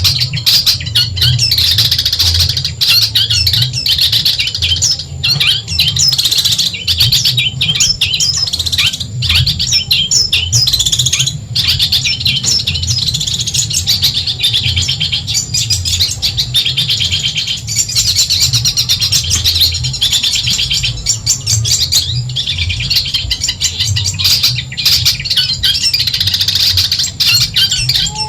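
Long-tailed shrike (cendet) singing a rapid, unbroken stream of high chattering notes, with a low steady hum underneath.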